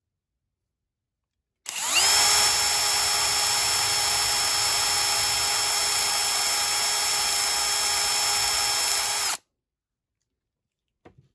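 Electric drill-type power tool spinning up about two seconds in and running at a steady whine for about seven seconds, then cut off abruptly; a faint tap near the end.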